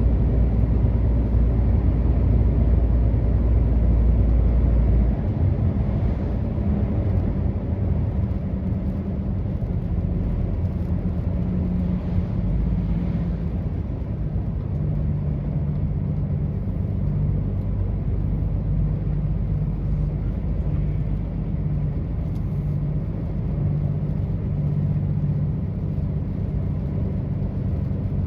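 Truck engine and road noise while driving: a steady low rumble whose engine pitch shifts now and then. The deepest rumble falls away about five seconds in.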